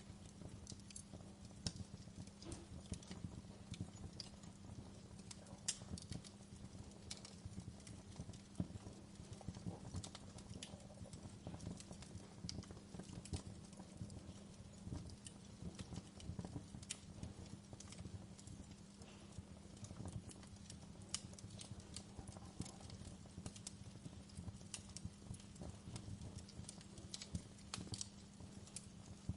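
Wood fire burning in a fireplace, crackling with frequent irregular pops and snaps over a low steady rumble.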